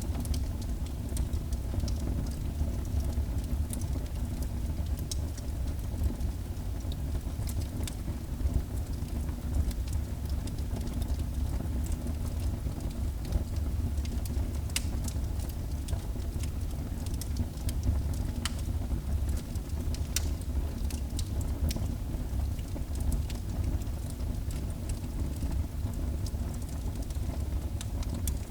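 Wood fire burning in a fireplace: a steady low roar of the flames with irregular sharp crackles and pops of the burning wood.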